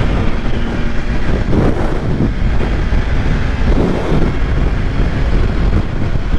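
Loud, steady wind rush on the microphone of a 2022 BMW S1000RR M at highway speed, with the bike's inline-four engine running underneath.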